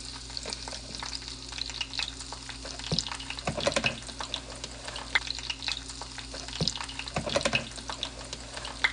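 Plantain slices frying in hot oil in a pan, a steady sizzle with fine crackling. Two brief clatters come about three and a half and seven seconds in.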